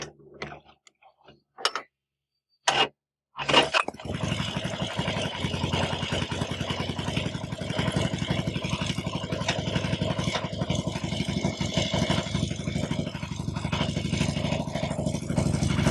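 A few sharp clicks and knocks, then about three and a half seconds in a Harley-Davidson V-twin motorcycle engine starts and runs steadily at idle.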